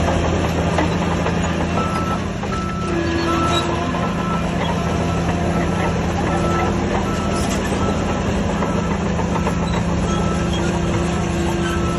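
Diesel engine of a heavy earthmoving machine running steadily, with its reversing alarm beeping about every 0.6 seconds from about two seconds in.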